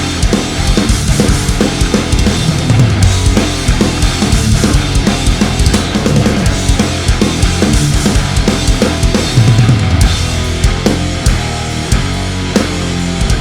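Mapex Saturn V acoustic drum kit played in a driving heavy-rock groove, kick and snare hits steady, along with heavy rock music.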